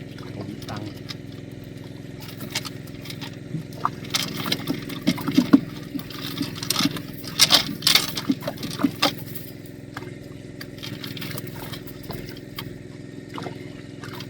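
A small engine running steadily, with scattered clicks and knocks over it, busiest in the middle.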